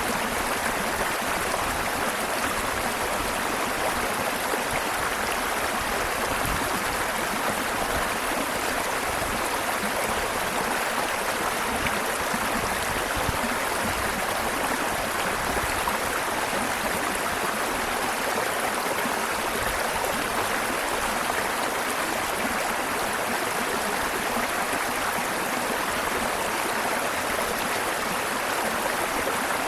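Waterfall's water rushing steadily, a continuous even roar without breaks.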